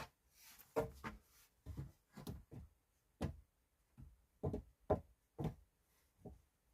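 Irregular series of about a dozen sharp wooden knocks, some in quick pairs, like wood being struck or worked by hand.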